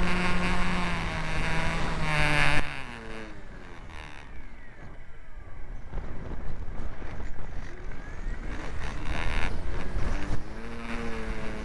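Electric motor and propeller of a Hawk Sky radio-controlled foam plane whining in flight, its pitch sliding down before it cuts off about two and a half seconds in. After that there is mostly wind rumble on the microphone, and the motor's whine comes back near the end, rising and falling in pitch.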